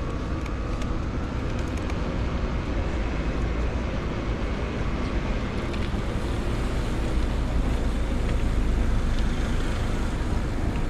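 Steady city street traffic noise: a continuous low rumble of road vehicles that grows a little louder past the middle.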